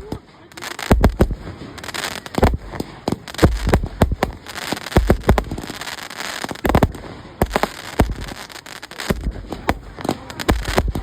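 Fireworks display: a rapid run of sharp bangs and crackling, many reports a second, with deep booming thuds every second or two.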